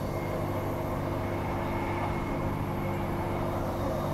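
Steady interior running noise of a Walkers A-series electric multiple unit under way: a constant electric hum with several steady tones over wheel-on-rail rumble and hiss.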